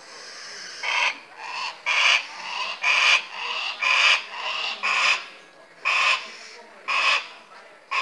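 A bird giving harsh, rasping calls over and over, about one a second, with softer calls in between the loud ones, starting about a second in.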